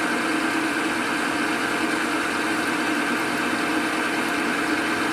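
Metal lathe running steadily, its motor and spindle giving a constant hum with a steady higher whine.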